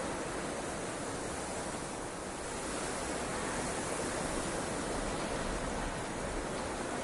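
Steady rushing wind of a blizzard, an even noise with no gusts or breaks.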